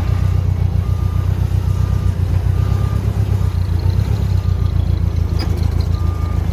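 Forklift engine running steadily while its backup alarm beeps about once a second; the beeping stops about halfway through and starts again near the end.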